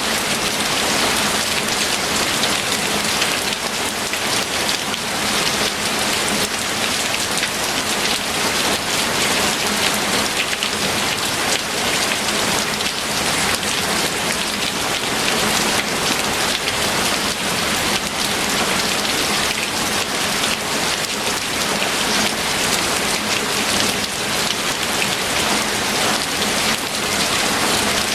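Steady rain falling and pattering on surfaces, dense and even.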